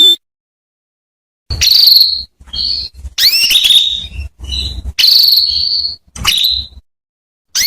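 Female canary calling, starting about a second and a half in: a run of short, high trilled chirps, each phrase half a second to a second long with brief gaps between them.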